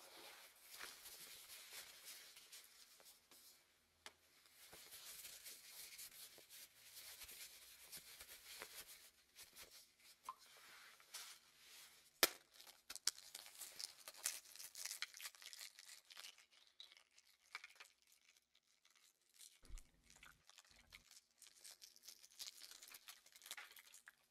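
Quiet rustling and crackling of hands at work: fabric and bedding shifting, with many small crackles and clicks like a boiled egg's shell being cracked and peeled. One sharp click comes about halfway through, and a soft low thud follows a few seconds before the end.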